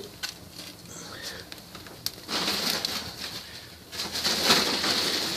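Wood fire burning in a fireplace, with a single knock about two seconds in, as of a log being set on the fire, then rushing, crackling noise from the flames.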